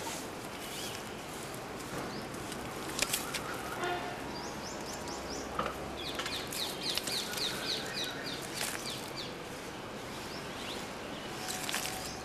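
Outdoor bird calls: a quick series of high chirping notes about four seconds in, then a longer rapid run of high notes in the middle, over a steady background noise with a few sharp clicks.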